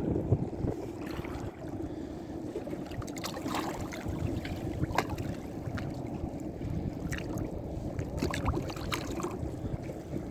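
Steady wind and water noise aboard a small fishing boat at sea, with scattered light clicks and knocks.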